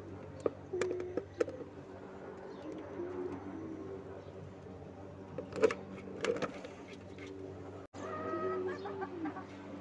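Low, wavering cooing calls of birds, with several sharp clicks of eggs being set down in a basin in the first second and a half and again near the middle.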